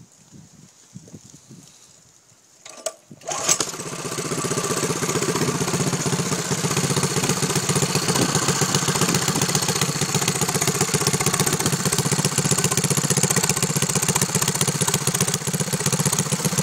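Predator 6.5 hp single-cylinder engine on a mini bike starting about three seconds in, then running steadily with a fast, even run of exhaust pulses.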